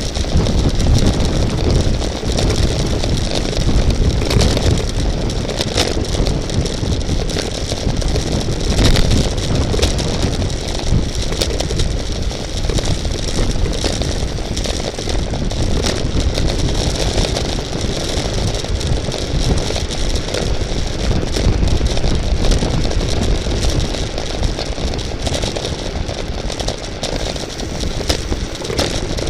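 Steady wind buffeting and road rumble on a moving camera's microphone, with scattered clicks and rattles, typical of riding in a bicycle race.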